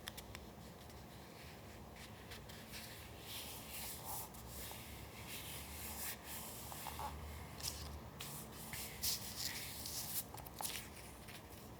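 Paper being handled up close: irregular rubbing, sliding and rustling strokes with a few sharp ticks, the loudest of them near the end.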